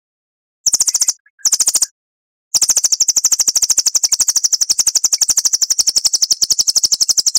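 A songbird's high-pitched rapid trill, a fast run of identical notes at about ten a second: two short bursts, then one long unbroken burst of about five seconds. This is the long machine-gun-like 'tembakan' trill prized in bird-song tutoring recordings.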